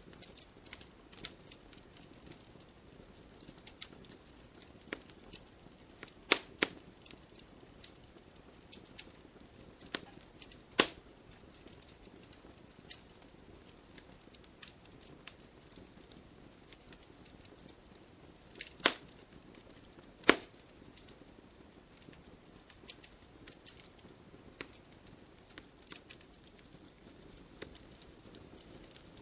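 Campfire crackling: a constant scatter of small irregular snaps over a faint low hiss, with a few louder sharp pops, the loudest about two-thirds of the way through.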